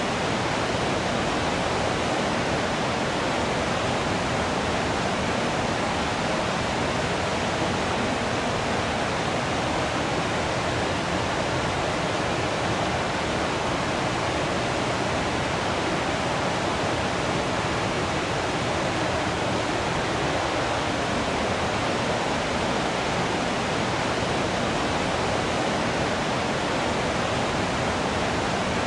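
Waterfall: water falling and rushing in a steady, even roar with no breaks or changes.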